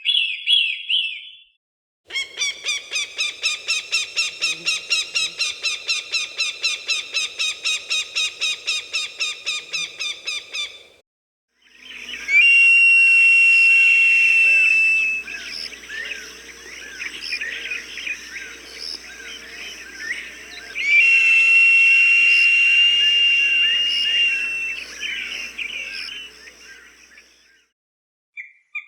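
Recorded hawk calls: a rapid run of repeated sharp notes, about four a second, lasting some nine seconds, then after a short pause two long, steady, high whistled screams a few seconds apart, with small birds chirping in the background.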